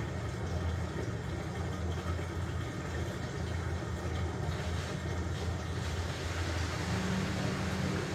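LG washing machine running with a load of blankets: a steady low motor hum under an even noise of the tumbling load, the hum stepping up in pitch about seven seconds in.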